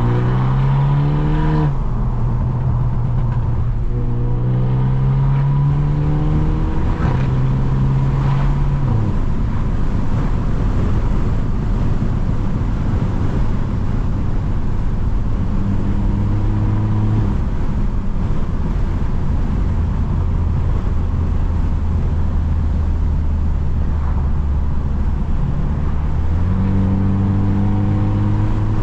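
Straight-piped, Stage 2+ tuned BMW F30 accelerating hard through the gears. The exhaust note climbs and drops back at upshifts, about two and seven seconds in, then settles into a steady drone and steps up again near the end.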